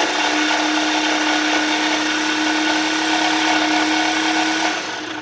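Small power tool running steadily as it cuts out a push bar, with a constant whine over a loud buzz. It winds down and stops right at the end.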